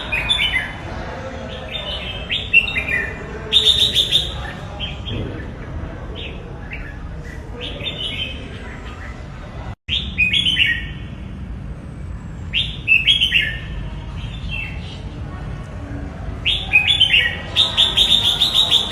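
Red-whiskered bulbul singing: short, quick chirping phrases repeated every few seconds, with a brief dropout about halfway through. A steady low background rumble runs underneath.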